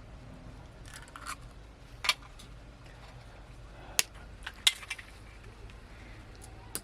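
Scattered sharp clinks and knocks of cooking utensils against pots and dishes, a handful of separate strikes a second or two apart over a low steady background.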